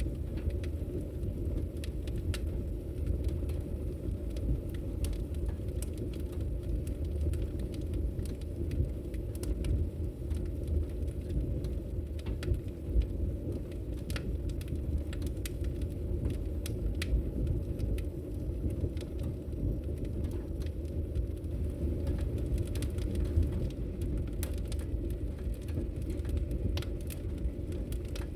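Wood logs burning in a fireplace, crackling with irregular sharp pops over a steady low rumble.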